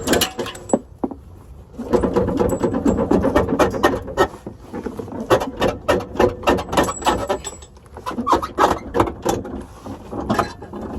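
Hand tools working on a vehicle's transmission: a fast, irregular run of metallic clicks and knocks, with a buzzing, machine-like stretch about two seconds in.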